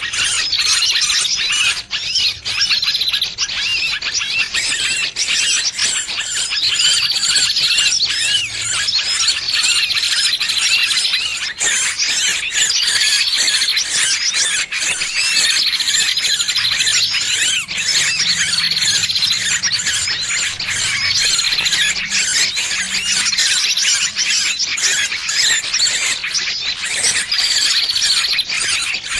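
Distress calls of a trapped small bird: a dense, unbroken run of high squeals and chirps, the alarm sound used as a lure to draw other birds in.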